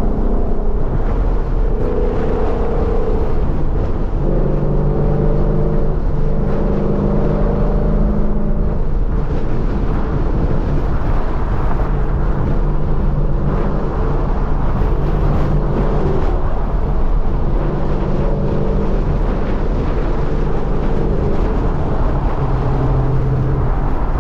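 2014 Ford Mustang GT's 5.0 V8 running at a steady cruise, its exhaust note droning over road and wind noise, the pitch shifting a little now and then.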